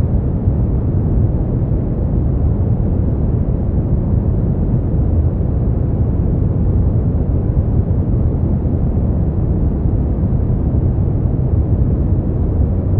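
Steady, unbroken sleep-aid noise, deep and dull rather than hissy: most of its weight is in the bass and there is little treble.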